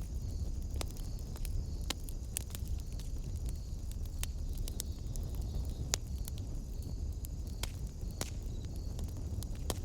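Wood fire burning in a fireplace: irregular sharp crackles and pops, a few each second, over a steady low rumble.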